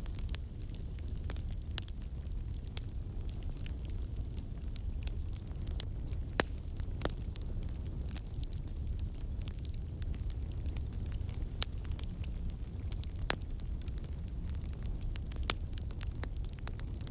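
Fire crackling in a fireplace: a steady low rumble and hiss with frequent sharp pops, a few of them louder.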